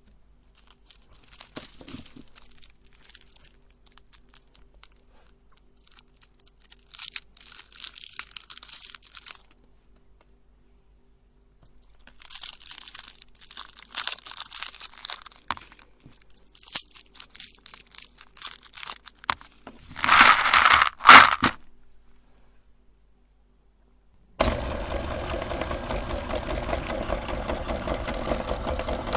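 Crinkling, tearing and crunching handling noises, with a louder flurry near the end. Then, after a brief silence, a meat grinder's motor switches on suddenly and runs steadily.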